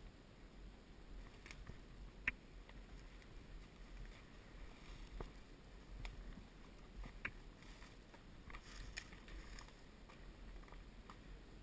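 Faint water sloshing with scattered sharp knocks as a horse wades across a rocky creek, the loudest knock about two seconds in.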